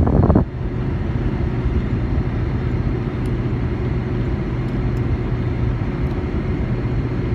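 Steady rush of the air-conditioning blower with the Dodge Nitro R/T's 4.0-litre V6 idling underneath as a constant low hum, the newly replaced AC compressor running with the vents blowing cold. A louder rush cuts off suddenly about half a second in.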